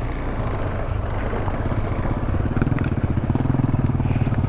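Adventure motorcycle engine running at low revs on a rough trail, pulsing steadily, with a few light clicks and rattles.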